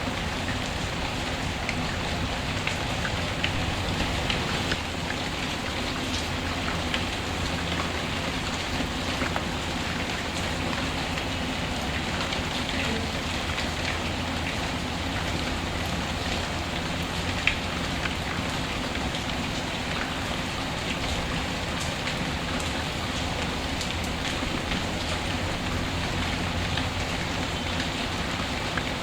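Steady rain falling, a dense even patter, with scattered sharp crackles from a fireplace fire, one louder snap about halfway through.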